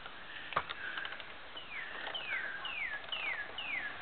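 A bird calling: a steady series of short whistled notes, each sliding downward, about two a second, starting about a second and a half in. A single sharp knock comes about half a second in.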